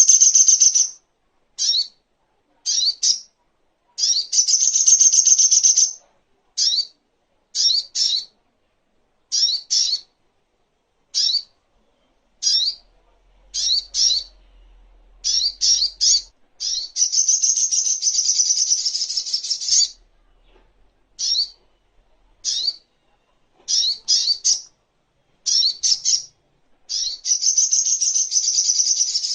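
Little spiderhunter (sogok ontong) calling: short, sharp high notes, singly or in quick pairs, broken up by longer rapid chattering trills of about two seconds each.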